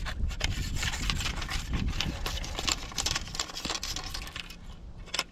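Fishing tackle being handled, a run of irregular clicks and light knocks.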